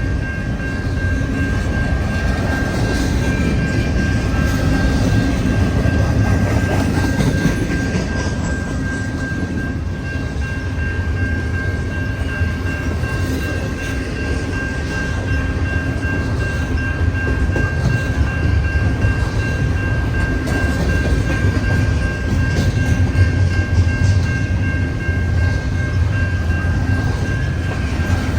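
A train's cars rolling past at steady speed: a continuous rumble of wheels on rail, with a thin, steady high whine over it.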